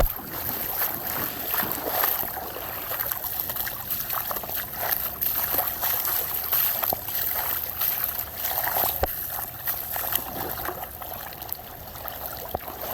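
Floodwater running down a flooded street and over the curb: a steady rushing with scattered small splashes.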